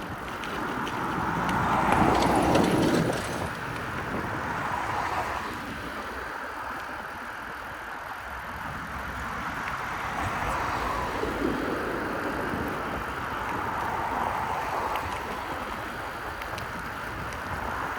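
Street noise heard from a moving bicycle: a steady low rumble of wind and road, with motor traffic swelling and fading past several times, loudest about two seconds in.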